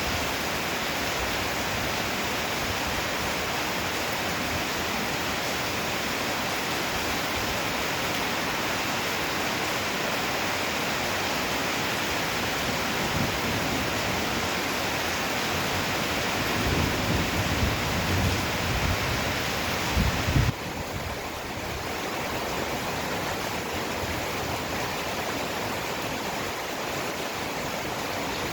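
Heavy downpour of rain, a steady hiss. A low rumble of thunder builds from about two-thirds of the way through and cuts off suddenly, after which the rain sounds softer.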